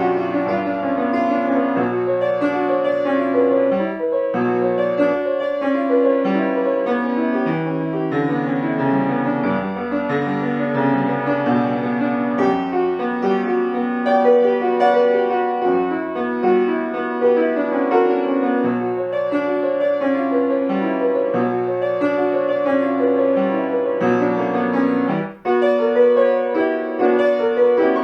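Solo piano playing a piece, a steady succession of chords and melody notes, with a momentary break about 25 seconds in.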